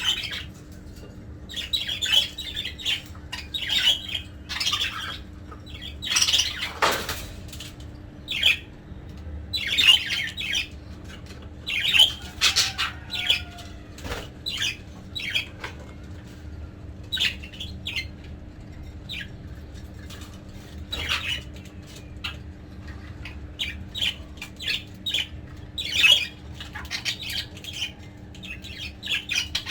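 Budgerigars squawking and chirping in short, sharp calls at irregular intervals, over a steady low hum.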